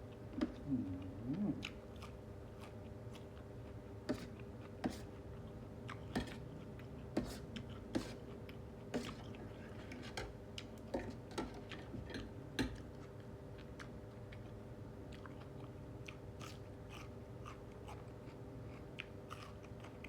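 A person chewing and biting a spicy instant-noodle salad with squid and shrimp, with many sharp, irregular clicks. The clicks come thick for the first two-thirds and thin out near the end.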